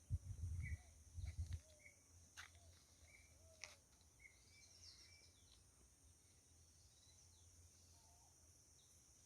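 Squirrel cuckoo calling faintly, a few short scattered notes, over a steady high hiss. Dull low bumps in the first second and a half, and two sharp clicks a little over a second apart in the middle.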